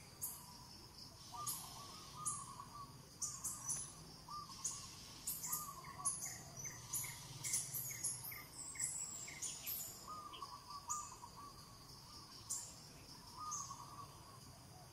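Birds chirping and calling over a steady outdoor background: many short high chirps, a warbling call, and in the middle a run of short repeated notes about two or three a second.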